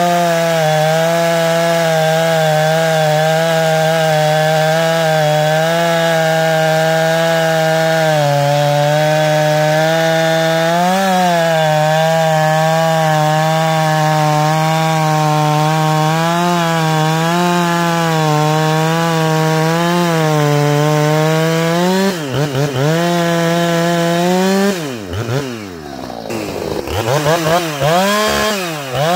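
Ported, muffler-modded Husqvarna 455 Rancher two-stroke chainsaw running at high revs through a long cut in wood, its pitch sagging slightly under load now and then. Near the end the revs drop away and climb back up several times, then it settles back to full speed.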